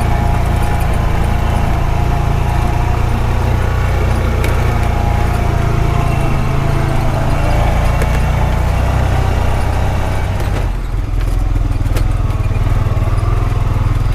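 Honda Pioneer 520 side-by-side's engine running steadily as it drives along. About ten and a half seconds in, the engine note changes and the higher noise falls away.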